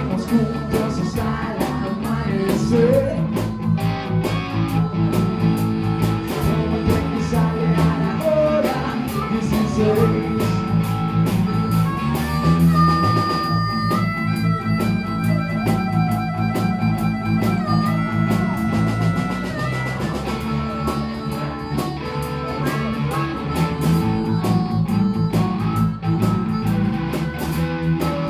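A blues-rock band playing live: electric guitar, bass guitar and drums with cymbals, with a long held high melody line in the middle.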